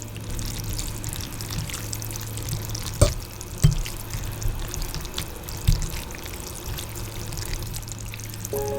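Food cooking in a pan, with a steady crackle and spatter and a low hum underneath. A few sharp knocks land in the middle.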